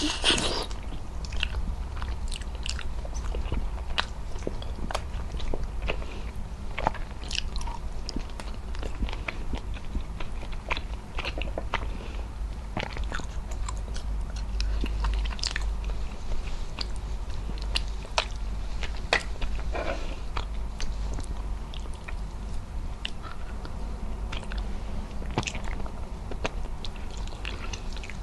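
Close-miked biting and chewing of sticky braised beef trotter (adobo pata) eaten by hand: irregular wet mouth clicks and smacks throughout, with a louder bite right at the start.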